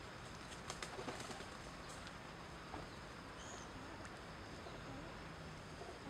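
Faint outdoor ambience with distant birds calling: a brief high call about three and a half seconds in and soft low calls later on. A few faint clicks come in the first second and a half.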